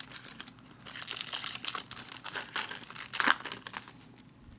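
Foil trading-card pack wrapper crinkling and tearing as it is opened by hand: a dense run of crackles, sharpest about three seconds in.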